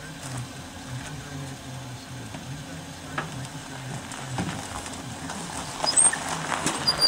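Crackling, sizzling sound of MIG welding, with scattered clicks over a steady low hum. It grows louder and denser about six seconds in.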